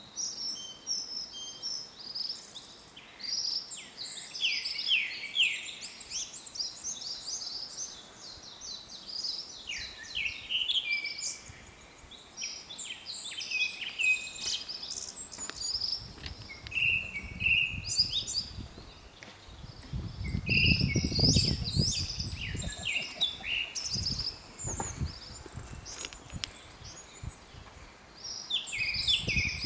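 Japanese thrush (kurotsugumi) singing a run of varied whistled and trilled phrases, with short pauses between phrases. About two-thirds of the way through, a low rumble sits under the song for a few seconds.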